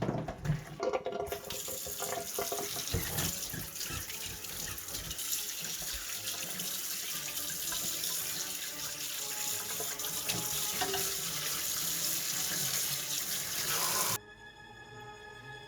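Tap water running steadily into a sink, after a few knocks at the start; it stops abruptly near the end and background music follows.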